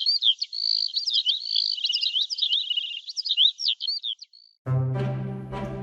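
Songbirds chirping and trilling in quick, high-pitched rising and falling phrases, laid in as a nature sound effect. Soft orchestral music comes in near the end.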